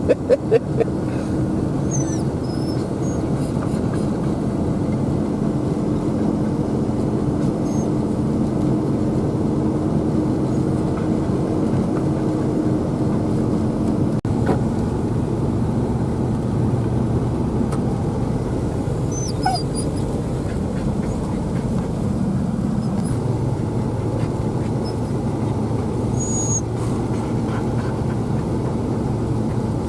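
Vehicle engine running steadily while driving through several inches of fresh snow, with a few short, faint high-pitched squeaks.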